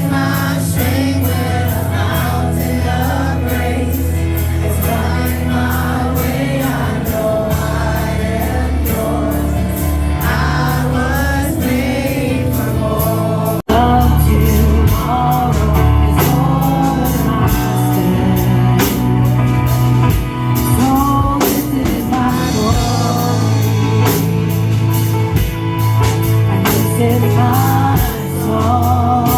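Live praise and worship music: a band playing with singers. The sound drops out for an instant about halfway through and comes back louder.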